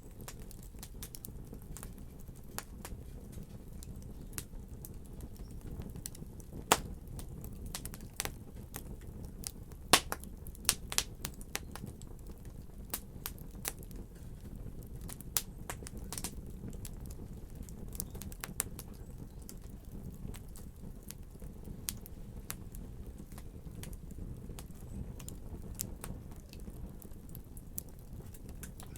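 Fire crackling in a fireplace: a steady low rumble of burning with frequent sharp snaps and pops, the loudest about seven and ten seconds in.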